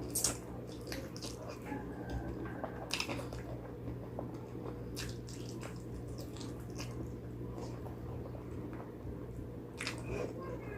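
Someone eating pig trotters close to the microphone: wet squishing, biting and chewing with scattered sharp smacks, over a steady low hum.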